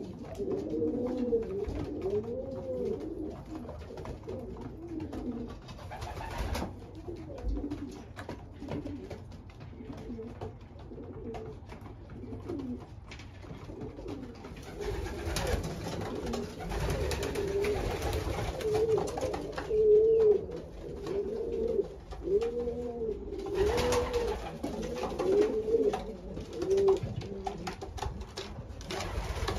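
Racing pigeons cooing repeatedly in a small loft, one rising-and-falling coo after another, often overlapping.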